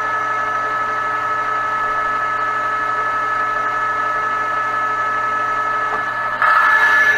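Metal lathe running a turning cut on a metal arbor's outside diameter, with a steady whine from the machine. About six seconds in the sound jumps louder and harsher for the last second.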